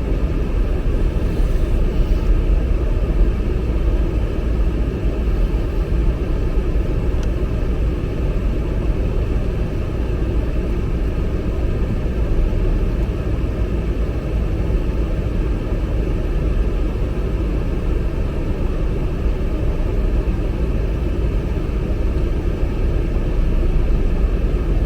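Steady low rumble heard from inside a car as it rides through an automatic tunnel car wash.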